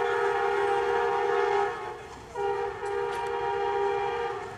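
Multi-tone horn of an approaching ZCU-20 diesel locomotive sounding two long blasts. The first ends about two seconds in, and after a short break the second is held until near the end.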